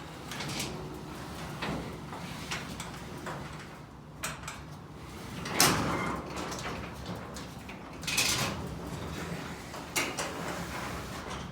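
Sectional garage door being closed by hand along its tracks, its rollers rumbling and rattling, with several knocks, the loudest about five and a half seconds in. The door is being run down to check its balance after a torsion spring cable replacement.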